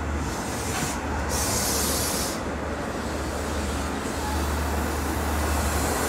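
Long Island Rail Road diesel passenger train running with a steady low hum, and a loud hiss for about a second starting just over a second in.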